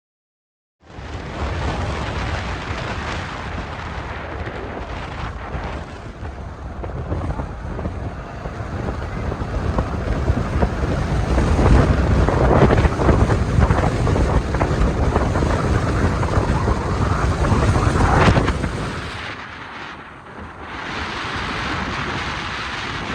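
Heavy wind buffeting the microphone from a moving vehicle, with road noise underneath. It grows louder through the middle and eases off sharply about twenty seconds in.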